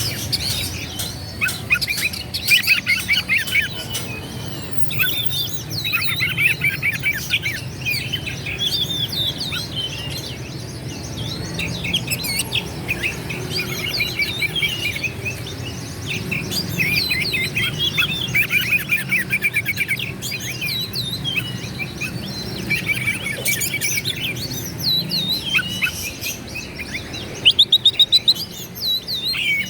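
Oriental magpie-robin singing a continuous, varied song of rapid whistles, chirps and trills, over a steady low hum. Near the end comes a quick run of about seven sharp loud notes.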